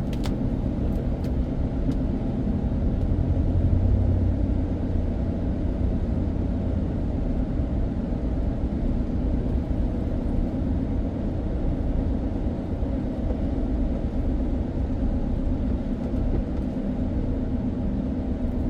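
A car driving at a steady pace: a constant low rumble of engine and road noise heard from inside the cabin, swelling a little about four seconds in.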